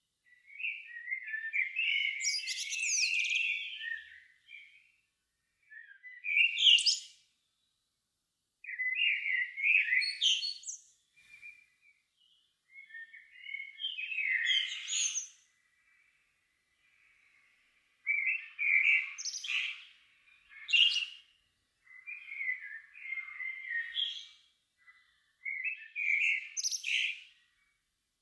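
A songbird singing varied warbling phrases of one to three seconds each, with short pauses between. There are about seven phrases, each starting low and ending in higher twittering notes.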